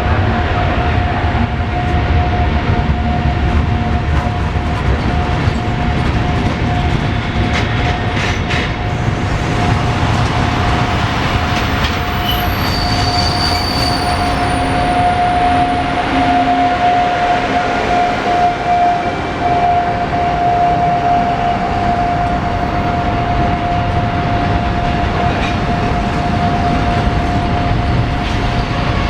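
Freight train rolling past on the station tracks, its wheels giving off a steady high-pitched squeal over the continuous rumble of the wagons.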